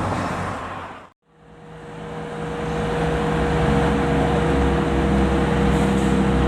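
Heavy fire truck engine and road noise fading out to a moment of silence about a second in, then fading back in as a steady engine drone with a constant tone.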